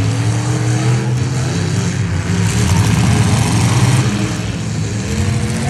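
Demolition derby trucks' engines running and revving, the pitch rising and falling.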